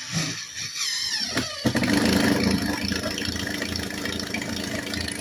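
An engine or motor starting up, its pitch sliding down over the first second and a half, then running steadily with a low, pulsing hum.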